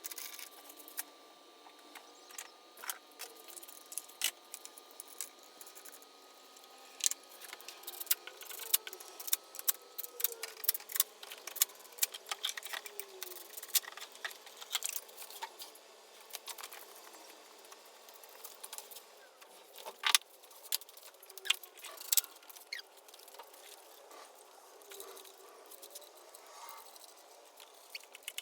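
Irregular metallic clicks and clinks of hand tools and small metal parts being handled while working on a car engine.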